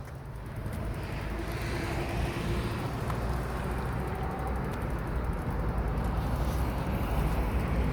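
Wind and road rumble from riding a bicycle outdoors, building up gradually, with a faint rising hum in it.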